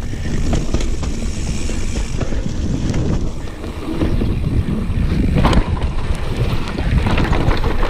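Mountain bike rolling fast down a wet, leaf-covered trail: steady wind noise on the microphone over the rumble and rattle of the tyres and bike. There is one sharp knock about five and a half seconds in.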